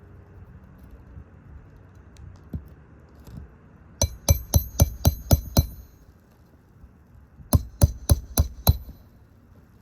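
Hammer striking roofing nails into asphalt shingles: two quick runs of ringing metal-on-metal blows, about seven strokes, then five or six more roughly two seconds later.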